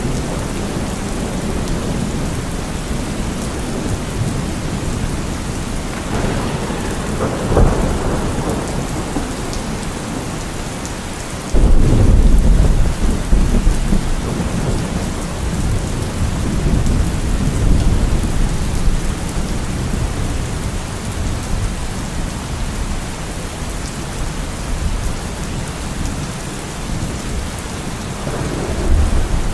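Steady rain with thunder: a short thunder crack about seven seconds in, then a sudden loud clap a little before the middle that rumbles on and fades over several seconds, and another rumble building near the end.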